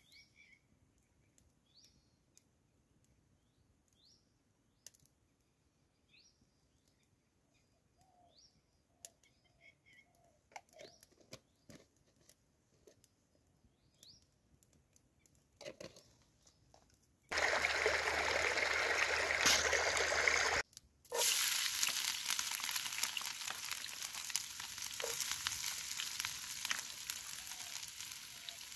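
Quiet with a few faint clicks for most of the first half. Then, about 17 seconds in, a loud sizzle starts suddenly as food is put into hot oil in a frying pan over a wood fire; it breaks off for a moment and then goes on frying steadily.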